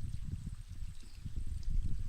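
Wind buffeting the microphone: an irregular low rumble that rises and falls in uneven gusts and swells louder near the end.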